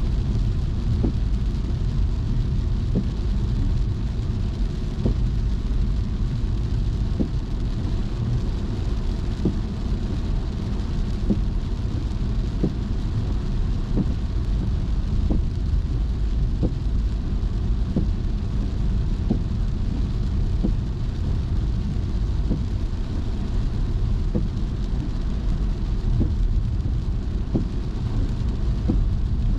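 Steady low road and engine rumble of a car driving on wet roads, with the hiss of rain and spray. Faint light ticks come about every two seconds.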